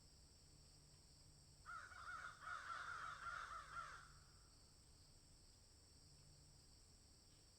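A bird gives a faint, rapid chattering series of short notes for about two seconds, starting a couple of seconds in, over a steady high-pitched background hiss.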